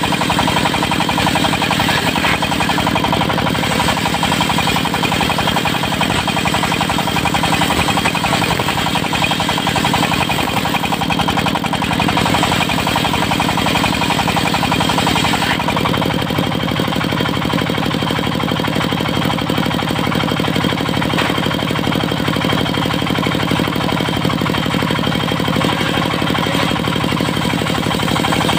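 Diesel engine of a portable circular-saw sawmill running steadily with a fast, even pulsing. About halfway through, the higher part of the sound falls away while the engine runs on unchanged.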